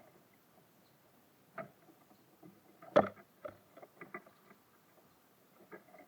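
Irregular taps and knocks of birds landing and pecking on a bird feeder: a single tap, then the loudest knock about halfway through followed by a quick run of smaller taps, and a few more taps near the end.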